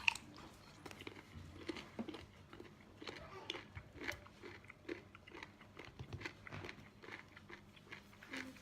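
Close-miked chewing of raw sea cucumber: irregular, crunchy, wet mouth clicks several times a second, with a sharper bite right at the start.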